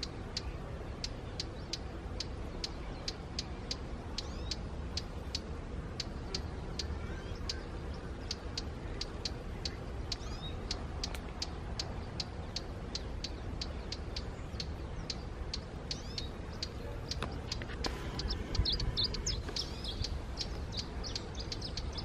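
Small birds calling: a steady run of short high ticks, about three a second, with a burst of more varied chirping near the end, over a low background rumble.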